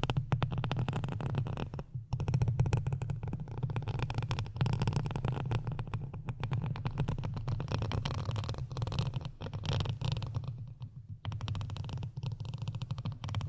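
Close-miked ASMR scratching and rubbing: a dense crackling texture over a steady low rumble, dropping out briefly a few times.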